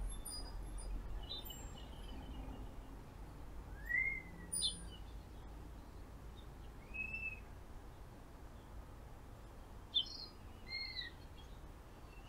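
Birds calling faintly: a few short, arched chirps spaced several seconds apart, over a low steady background hum.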